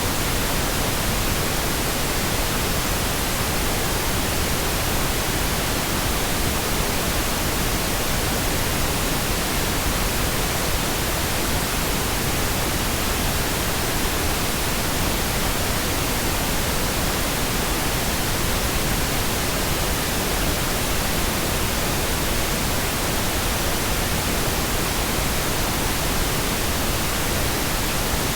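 Synthetic pink noise: a steady, unchanging hiss spread evenly across the whole range from deep lows to high treble.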